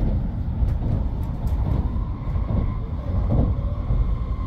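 Running noise of a Tokaido Shinkansen N700S train heard from inside the carriage: a steady low rumble with a faint steady whine above it.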